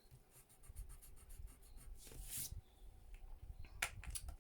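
Pencil drawing on paper, faint: a run of quick short scratching strokes in the first second or so, one longer stroke about two seconds in, and a light tap near the end.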